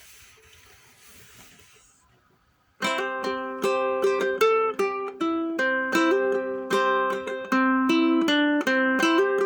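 Faint hiss and handling noise, then about three seconds in a plucked acoustic string instrument starts playing: a picked instrumental introduction of single notes over a ringing held note.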